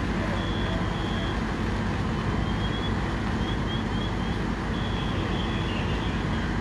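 Steady engine rumble from fire trucks running at a fire scene. Short high chirps and a few brief high beeps sound over it.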